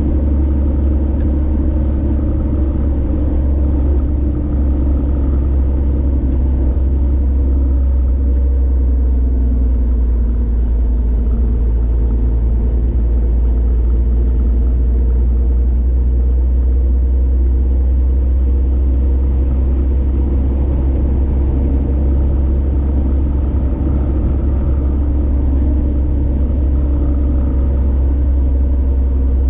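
A car driving along a highway: a steady low rumble of engine and tyre noise that holds even throughout.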